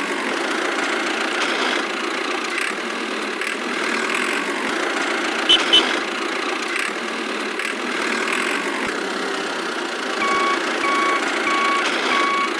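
Engine running steadily, with two short clicks about halfway through; near the end a reversing beeper sounds four times, evenly spaced.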